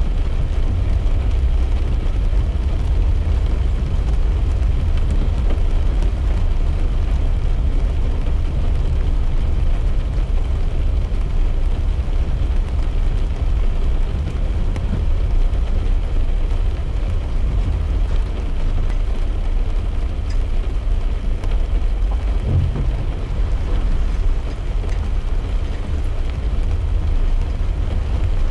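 Car driving on a wet road, heard from inside the cabin: a steady low rumble of tyres and engine, with faint ticks of raindrops on the glass. A brief low bump about three quarters of the way in.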